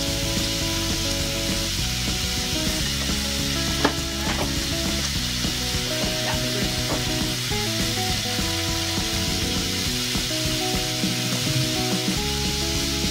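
Diced chicken breast, onion and green vegetables sizzling in a saucepan as they are sautéed and stirred with a plastic spoon. There is a steady hiss, and a sharp knock of the spoon on the pan about four seconds in.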